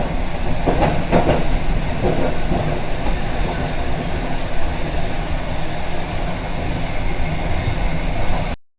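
Bernina Express train running on the rails: a steady loud rumble with a few clicks from the wheels over rail joints, cutting off suddenly near the end.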